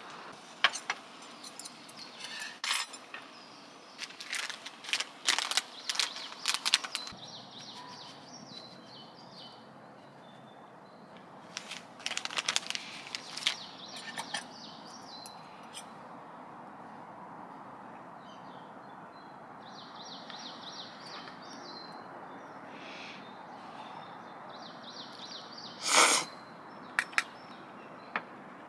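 Metal utensils and cookware clinking and knocking in short clusters, with one louder knock near the end. Birds chirp now and then in the background.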